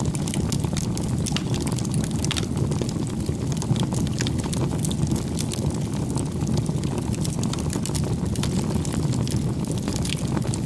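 Bonfire crackling: a steady low rumble of burning wood with frequent sharp pops and snaps.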